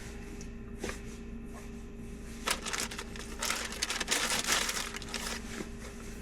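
Crinkly rustling and light clicks from a dog nosing and sniffing at the cups of a treat shell game. The rustling is densest a little past the middle, over a faint steady hum.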